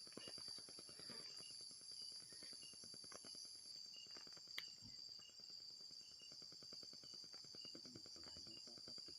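Night insects, crickets, trilling steadily and fast, with a thin high whine that stops before the middle and one sharp click about four and a half seconds in.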